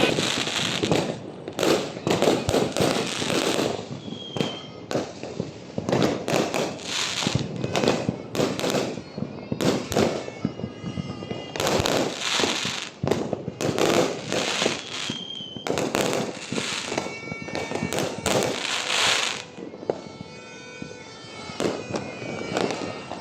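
New Year fireworks and firecrackers going off in clusters of rapid crackling bangs, with short quieter gaps between volleys and a lull near the end.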